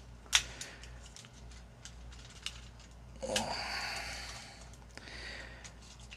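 Hard plastic parts of a Transformers action figure clicking and scraping as they are forced into place: one sharp click near the start, scattered small ticks, and a longer rushing scrape about three seconds in.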